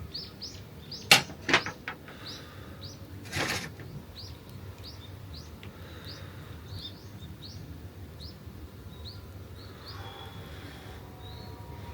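A small bird calling in a long series of short, high, rising chirps, roughly one or two a second. Two sharp knocks about a second in and a brief rustling burst a little after three seconds are the loudest sounds.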